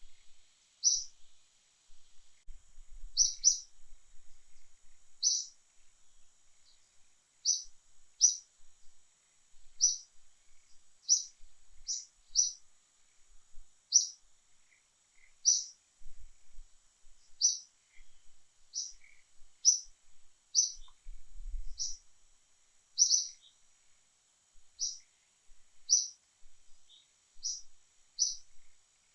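A bird calling: a short, high chirp repeated steadily, roughly once a second.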